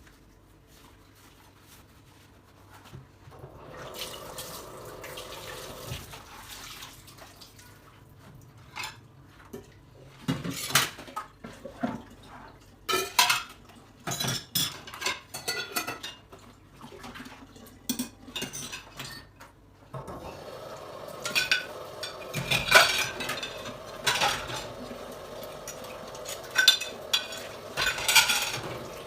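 Dishes and cutlery clinking and clattering as they are handled, with water running in two stretches, from about three seconds in and again over the last third. The first few seconds are almost quiet.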